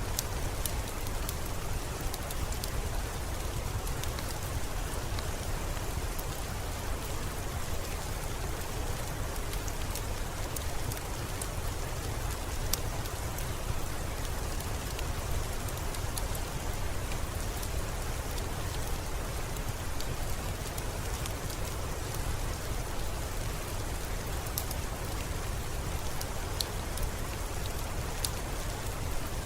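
Steady rain falling, an even hiss with a low rumble underneath and many small scattered ticks of drops.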